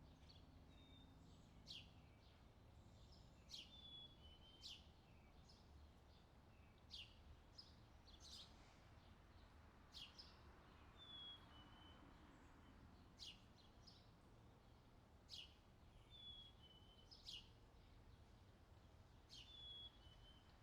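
Birds chirping in an outdoor summer ambience recording: short, sharp, falling chirps and brief whistled notes about once a second, over a faint low rumble.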